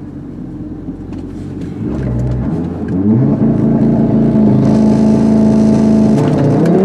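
Audi TT RS 8S's 2.5-litre turbocharged five-cylinder engine idling, then revved up about two seconds in and held at steady high revs before the launch. Near the end the revs drop and climb again as the car pulls away.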